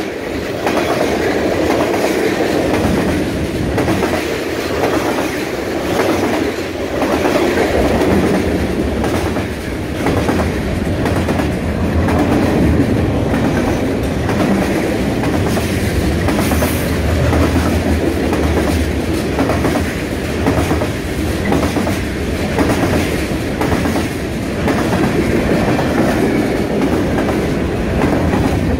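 A train passing close by: a steady rumble, with the wheels clicking over the rail joints in a regular rhythm.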